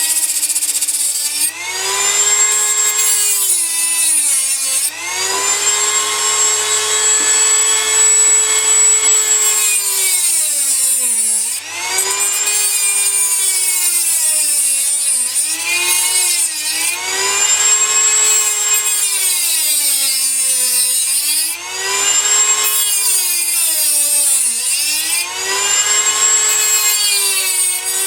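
Small electric drill with a cutting bit running at high speed through a cut, whining steadily. Its pitch sags several times as it is pressed into the work and slows under load, then rises again as it frees up.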